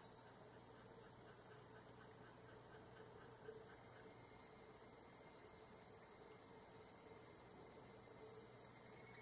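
Steady, high-pitched insect chorus of cicadas and crickets in a forest at dusk, continuous and fairly faint. There is no individual call in front of it.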